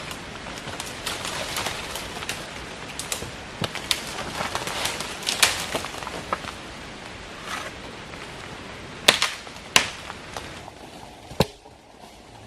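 Dry leaves and twigs rustling and crackling as deadwood and forest litter are cleared by hand, with irregular sharp snaps, three of them loud a little past the middle.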